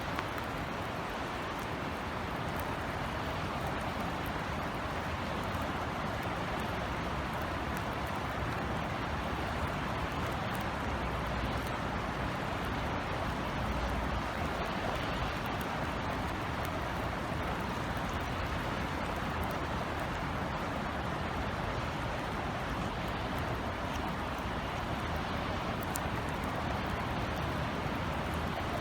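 Steady rain falling, an even hiss with scattered ticks of single drops, over a low rumble of distant city traffic.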